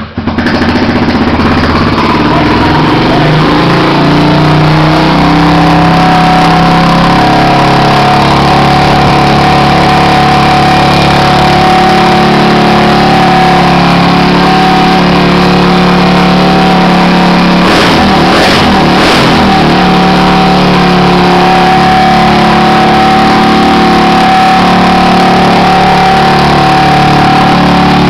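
Honda XR 250 Tornado's single-cylinder four-stroke engine running at a steady idle on choke just after a cold start. The note wavers over the first few seconds, then settles, with a brief change about two-thirds of the way through.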